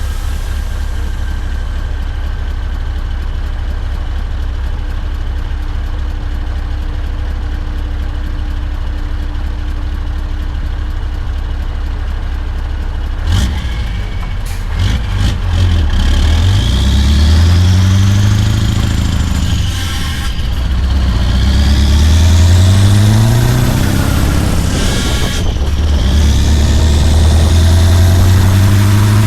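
Scania R580 V8 truck engine with a straight-piped 8-inch exhaust, running steadily at low revs. About halfway through there is a sharp click, and it pulls away, revving up through three gears: louder, the pitch rising in each gear and dropping at each shift.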